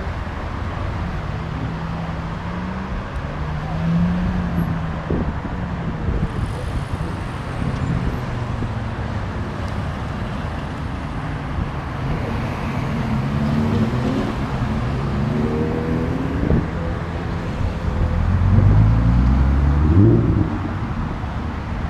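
Cars pulling away one after another, engines and exhausts revving up and easing off through the gears, with the loudest hard rev near the end.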